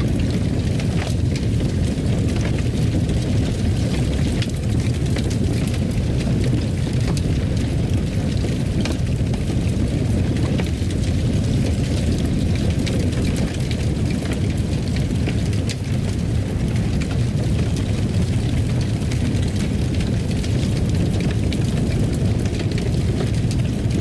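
Fireplace sound: a steady low rumble of burning fire with scattered small crackles and pops.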